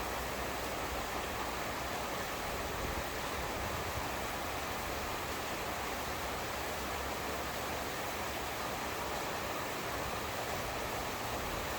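Steady heavy rain falling, a continuous even hiss with no breaks.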